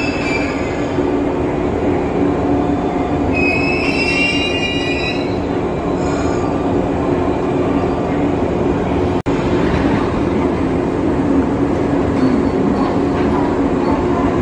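Yellow electric multiple-unit commuter train at a station platform: a steady low electrical hum and running noise, with a high metallic squeal at the start and again about four seconds in. The sound drops out for an instant a little after nine seconds.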